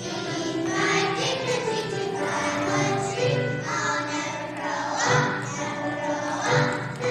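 A group of young children singing together with a musical accompaniment.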